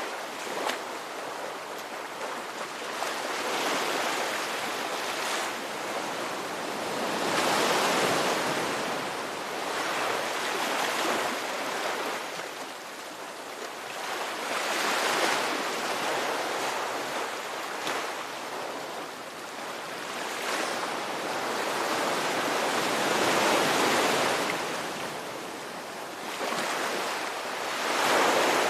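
Ocean waves breaking and washing onto a shore, a continuous surf hiss that swells and ebbs with each wave every three to five seconds.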